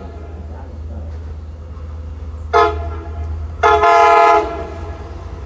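Train horn sounding a short blast and then, about a second later, a longer blast, over a steady low rumble.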